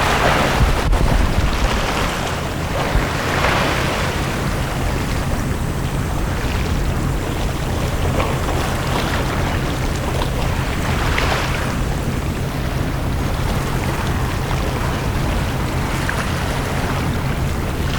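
Sea waves washing onto a beach, the wash swelling a few times a few seconds apart, over a steady low rumble.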